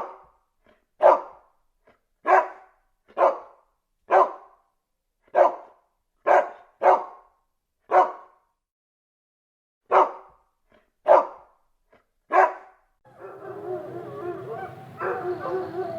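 A dog barking, about a dozen single barks spaced roughly a second apart with silence between them. From about 13 seconds in, a different continuous sound with a steady tone takes over.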